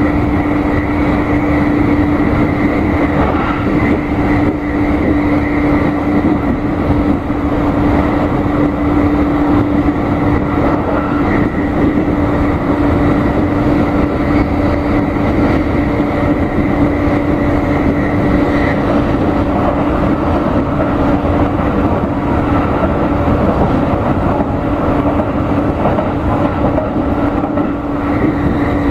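Cabin noise of a JR East E531 series electric train running at high speed: a steady rumble of wheels and running gear with a constant hum.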